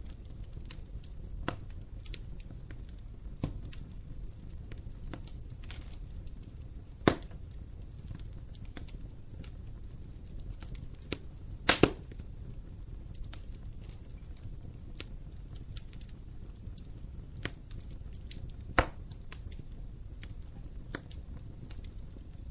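Wood fire crackling in an open fireplace: a low steady rumble of flame with scattered small crackles and sharp pops. The loudest are a single pop about seven seconds in, a quick double pop near the middle, and another pop about nineteen seconds in.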